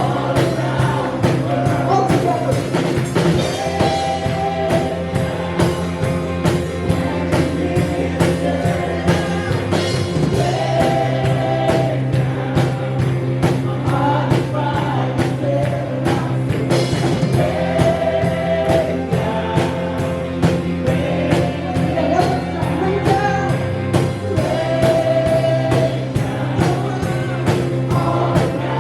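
Live worship band playing with singing: voices carry a melody over sustained bass and keyboard chords, with drums keeping a steady beat.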